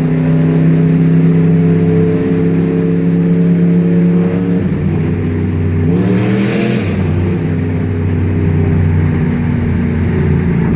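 Turbocharged Ford Mustang 4.6-litre three-valve V8 running in a tunnel with an open dump: a steady engine note that drops about four and a half seconds in, then revs climb sharply around six seconds with a brief hiss, and it settles back into steady running.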